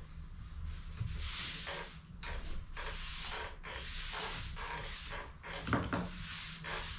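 Rustling and handling noises from cartridge-refilling bench work, a string of short scraping or rustling sounds with a sharp knock about six seconds in, over a steady low hum.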